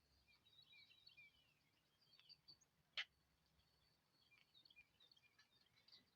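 Faint chirping and twittering of several small songbirds, with one short sharp note about halfway through that stands out as the loudest sound.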